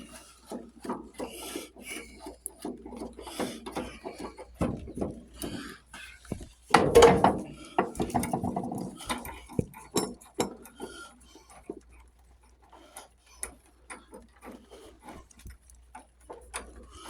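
Scattered clicks, knocks and scraping of hand tools and metal parts on an old lawn tractor being taken apart, with one loud clank about seven seconds in.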